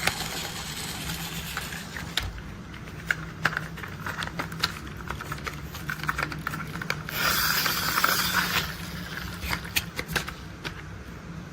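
Toy construction vehicles being handled: scattered light clicks and knocks, with a brief rushing, scraping noise lasting about a second and a half from about seven seconds in.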